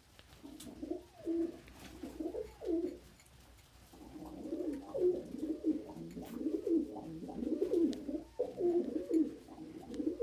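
Pigeons cooing: low, throaty coos in a short run near the start, then a longer, busier run from about four seconds in.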